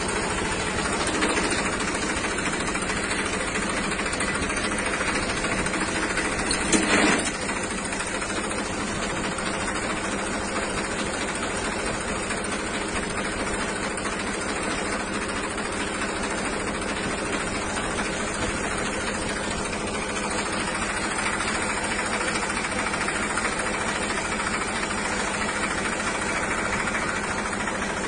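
Windstorm: strong wind blowing steadily in a dense, rumbling rush, with a brief loud clatter about seven seconds in.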